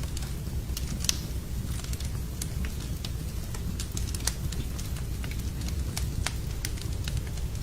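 Wood fire burning in a fireplace, crackling with irregular sharp pops over a low steady rumble of the flames. Louder pops come about a second in and again about four seconds in.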